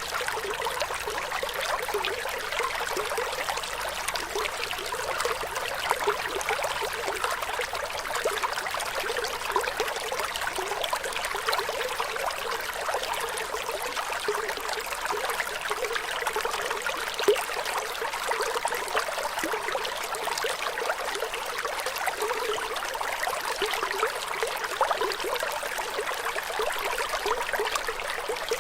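Flowing water running steadily: a continuous light trickle and splash, with hardly any deep rumble.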